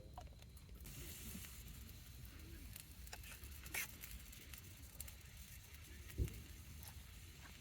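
Faint hiss with scattered light crackles and clicks, a sharper click near four seconds and a short dull knock about six seconds in.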